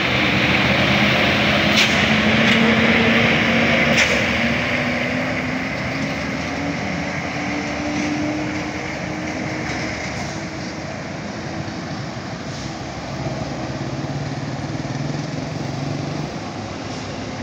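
A heavy road vehicle, a bus or truck, passing close by with loud road and engine noise. Its engine note rises slowly over several seconds as the noise fades, and a lower engine tone comes through near the end.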